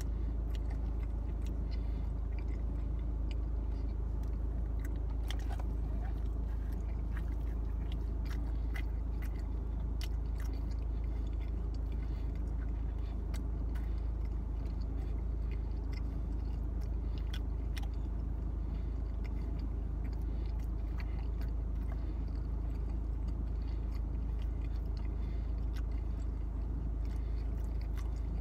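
A person chewing pizza close to the microphone, with many small mouth clicks scattered throughout, over a steady low hum.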